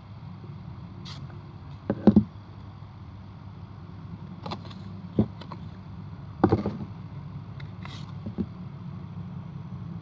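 Handling noise from a wallet being turned over and handled close to the microphone: a few short knocks and rustles over a steady low hum.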